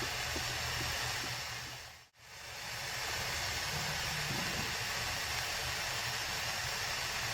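Steady blowing hiss over a low hum, which cuts out abruptly about two seconds in and then fades back up to the same level.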